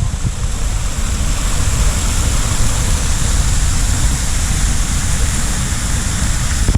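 Waterfall rushing steadily and loudly, a dense unbroken roar with a heavy low rumble.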